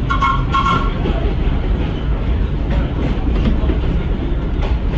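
Vintage R1/9 subway cars running along the track, with a steady low rumble of wheels and running gear and faint rail clicks. Two short, steady high tones sound in the first second.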